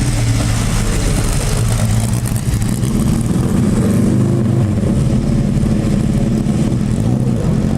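Old racing car's engine running steadily, its pitch shifting slightly.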